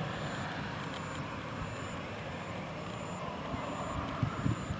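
Cessna Citation Mustang's twin turbofan engines, a steady rushing jet noise slowly fading as the jet climbs away after a touch-and-go. A few low thumps come in near the end.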